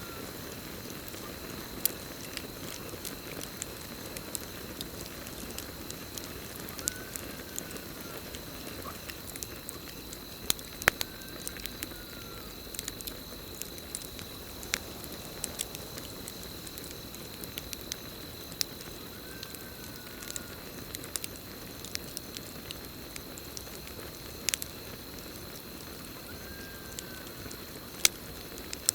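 Campfire burning, with frequent sharp crackles and pops over a steady hiss of flames, and crickets trilling steadily at a high pitch. A short call that rises and falls repeats every several seconds.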